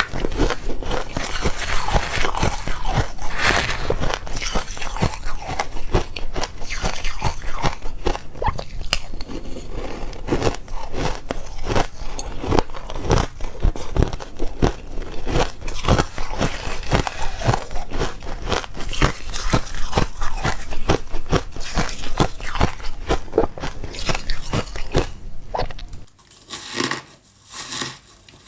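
Close-up crunching of ice being bitten and chewed, a dense run of sharp cracks. About 26 seconds in it drops to a quieter, sparser crunching.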